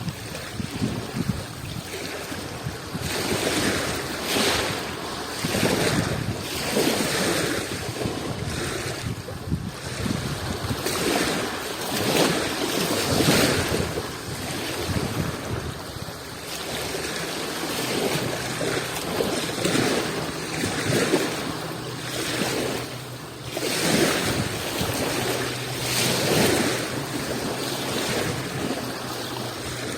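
Small Adriatic Sea waves washing in and drawing back, the surf swelling and ebbing every couple of seconds.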